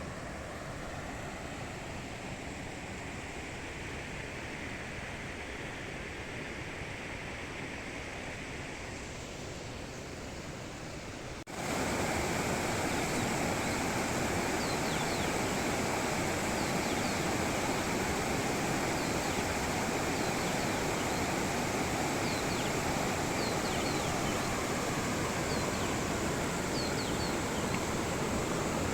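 Steady rushing of stream water. About eleven seconds in it cuts suddenly to a louder, fuller rush. Faint, short, high chirps sound over it now and then through the later part.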